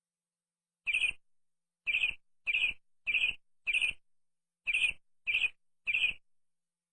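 Bird chirping: eight short, separate chirps with a brief pause before the last three.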